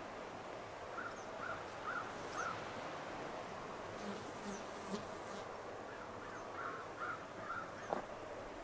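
A bird calling in short runs of quick notes, four about a second in and three more near the end, over a steady outdoor hiss.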